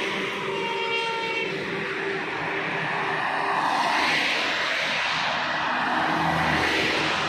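Highway traffic noise from passing heavy vehicles, swelling as one goes by about four seconds in, with a brief multi-tone horn about a second in.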